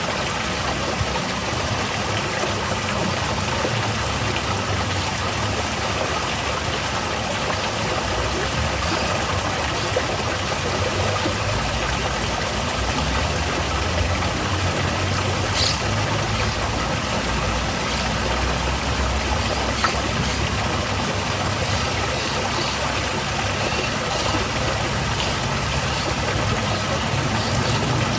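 Waterfall: water pouring and splashing in a steady rush, with a low, uneven rumble underneath.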